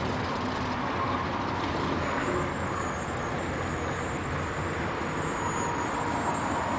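Steady road-vehicle noise with no clear engine note, like traffic going by.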